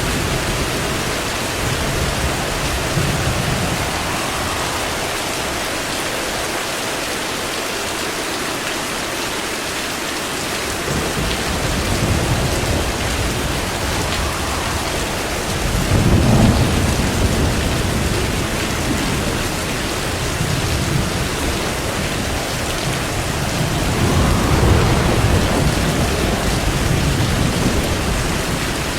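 Steady heavy rain with rolling thunder: low rumbles swell up several times, the strongest about halfway through and another near the end.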